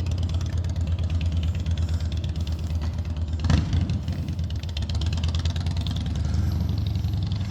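A car engine idling with a steady low hum, and a single knock about three and a half seconds in.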